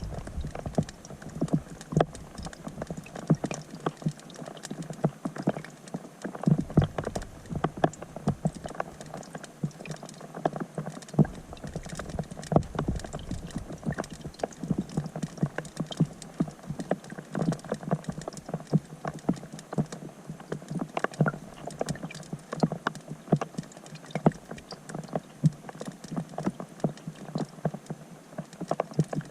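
Rain falling on a pond surface, heard through an underwater GoPro: a dense, irregular patter of drop taps, several a second, over a steady faint hiss.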